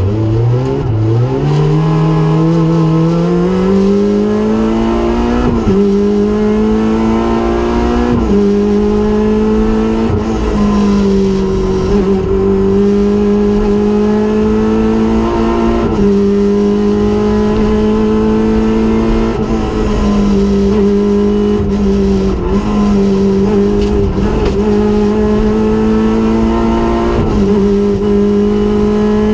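Rally car engine heard from inside the cockpit under hard acceleration: it climbs steeply from low revs in the first few seconds, then is held high, its pitch dipping briefly every few seconds at each gear change or lift.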